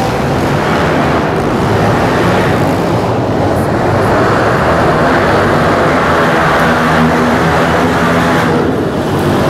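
Several motocross dirt bikes racing around the track, their engines revving together in a steady, loud mix.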